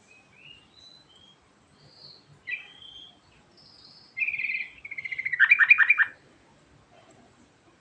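Yellow-vented bulbul (trucukan) singing: a few scattered short, high chirps, then about four seconds in a louder rapid trill that runs into a fast string of loud notes, stopping suddenly at about six seconds.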